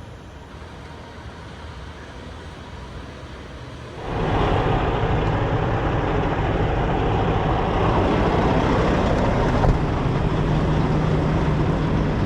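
Low, steady rumble of an idling diesel semi-truck engine. About four seconds in, a much louder rushing noise like wind on the microphone suddenly comes in over the engine rumble and stays.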